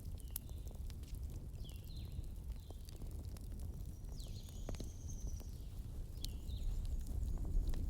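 Wood fire crackling, with scattered sharp pops over a low steady rumble. Small birds chirp a few short notes through it, with one longer high whistle about halfway.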